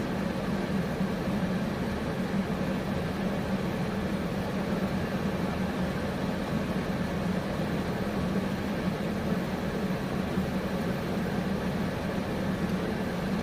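Steady vehicle engine hum heard from inside the car, a constant low drone with no breaks.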